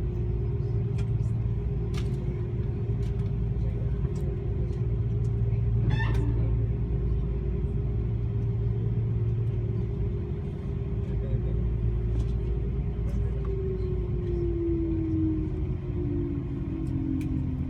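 Airbus A330-200 cabin noise: a steady low rumble with a whine that, about 13 seconds in, begins to fall slowly in pitch.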